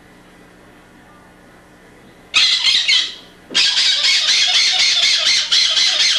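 Pet bird squawking loudly: a short harsh screech a little over two seconds in, then, after a brief pause, a longer run of rapid, pulsing squawks.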